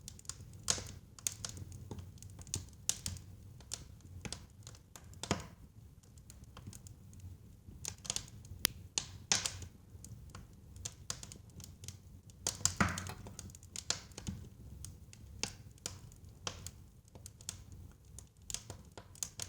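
Wood fire crackling in a fireplace: irregular pops and snaps over a low, steady rumble of burning. The loudest burst of crackling comes about two-thirds of the way in.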